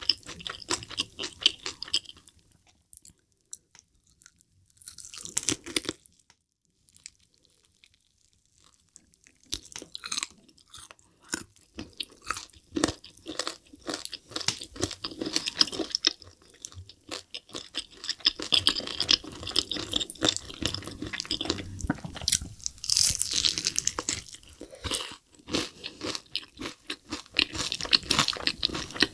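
Close-miked biting and chewing of yangnyeom (sweet-spicy glazed) Korean fried chicken drumsticks: crisp crunches of the fried coating and sticky chewing. Short bursts of crunching with quiet pauses come first, then steady crunching and chewing from about ten seconds in.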